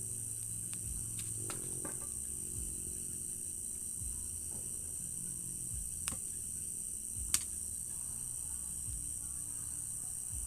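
Night-time chorus of crickets: a steady, high-pitched trilling, with faint low sustained tones underneath and two sharp clicks about six and seven seconds in, the second louder.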